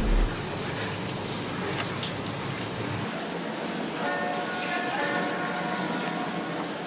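Steady hiss of running water, as from a shower sprayer or tap during a bath. Background music comes in faintly about four seconds in.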